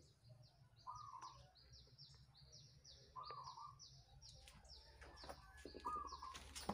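Faint birdsong: a rapid series of short, high, falling chirps, about three a second, with a lower call repeating three times. A sharp knock sounds near the end.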